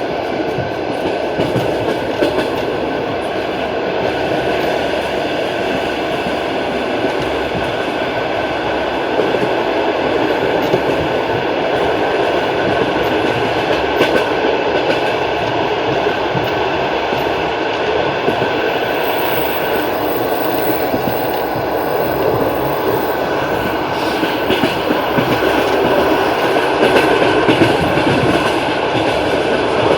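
Long-distance passenger train's wheels rolling on the rails: a steady rumble with a few faint steady tones and occasional clicks of the wheels over rail joints.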